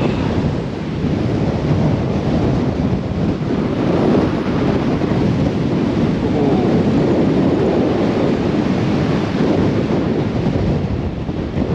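Strong storm wind blowing hard across the microphone: a loud, steady rush of low noise with gusty rises and falls.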